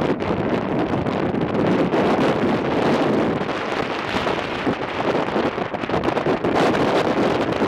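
Strong gusting wind buffeting the microphone, a loud rumbling, fluctuating rush of noise.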